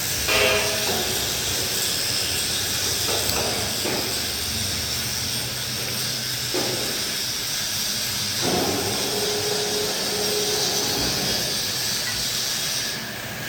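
Hydraulic baler machinery running: a steady hiss over a low electric hum, with a few short surges. The hiss cuts off suddenly near the end.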